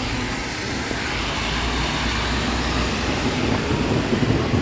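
Heavy rain pouring steadily, with a low rolling rumble of thunder that follows a lightning flash and swells, surging loudest near the end.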